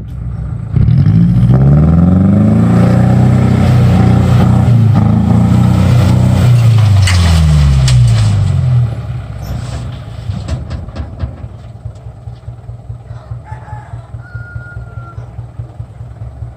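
Truck engine revving up and holding at high revs for several seconds, then dropping back about nine seconds in and running on at idle with scattered clicks.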